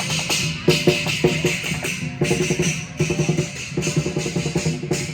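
Lion dance percussion: a large drum beaten in fast, steady strokes, with cymbals clashing in repeated groups over it.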